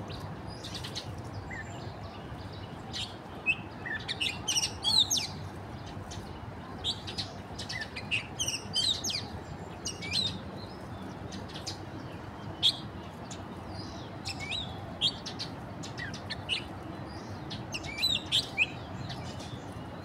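Small birds chirping: many short, sharp, high calls coming irregularly, some in quick clusters, over a steady faint background hiss.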